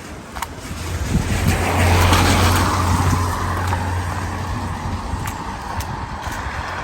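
A car passing on a wet road: the hiss of tyres on water swells about two seconds in, then slowly fades, over a low engine hum.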